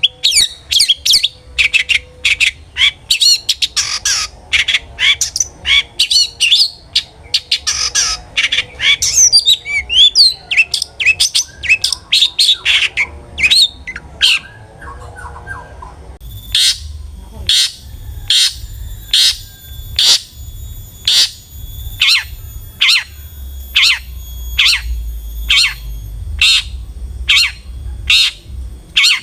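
Long-tailed shrike (cendet) singing: a rapid, varied run of chattering and squawking notes. About halfway through it changes abruptly to a single harsh call repeated evenly, about one and a half times a second.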